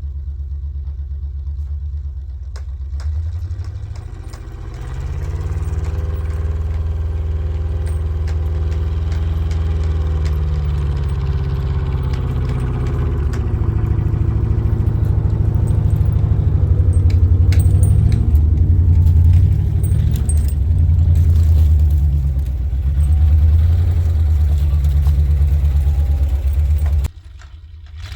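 1967 International 1200 truck's engine running from inside the cab, picking up revs about four seconds in and then rising and falling as it drives, with rattles and clatter of loose parts over the engine. The sound drops off sharply near the end.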